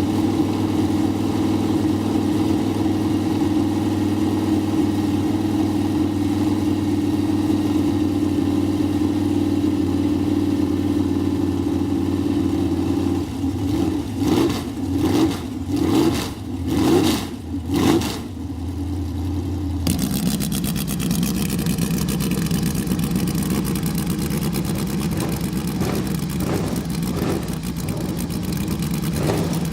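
Vintage race car engine idling steadily, then blipped through about five quick revs. Two-thirds of the way in the sound switches abruptly to another engine running at a steady, lower pitch, with a few light throttle blips near the end.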